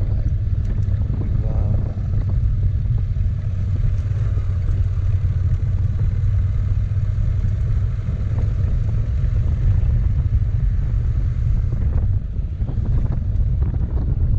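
Motorcycle underway at a steady speed: a constant low rumble of engine and wind noise on the microphone.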